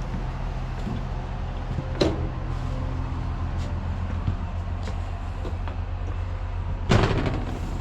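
A steady low hum with two sharp knocks, one about two seconds in and a louder one near the end.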